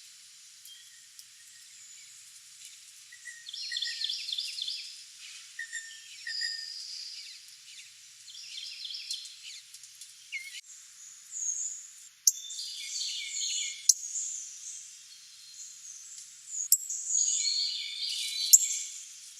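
Wild songbirds singing and calling, with short phrases of quick repeated notes every few seconds and higher chirps between them. A few sharp clicks sound in the second half.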